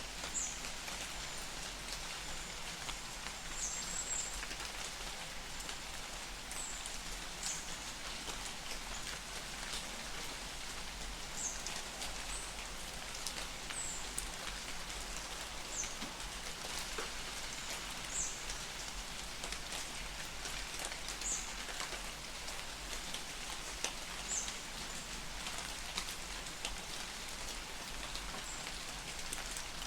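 Light rain falling steadily in a forest, an even patter, with short high chirps repeating every second or two.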